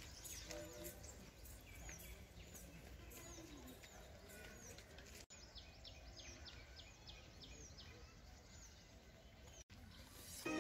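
Faint ambience of small birds chirping over and over in short, hooked calls, with distant indistinct voices in the background.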